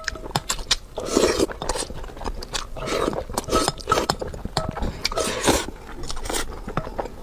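Close-miked eating sounds: a person biting and chewing food, with many short clicks and longer noisy bursts about a second in, around three seconds and around five and a half seconds.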